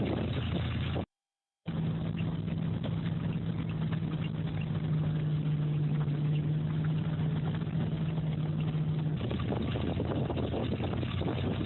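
A motor vehicle or machine engine running steadily. It drops out to silence for about half a second about a second in, then returns with a steady low hum that holds until a change near the end.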